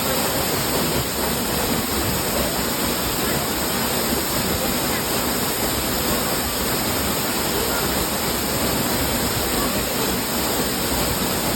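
Waterfall pouring steadily into its pool, a constant rushing of falling water.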